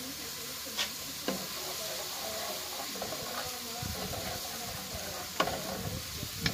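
Chopped onion and garlic sizzling in oil in an aluminium pot while a wooden spoon stirs them, scraping through the pan and knocking sharply against the pot a few times.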